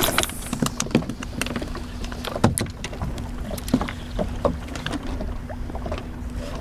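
Small fishing boat on the bay: a steady low hum under water and wind noise, with scattered knocks and clicks on board, the loudest about two and a half seconds in.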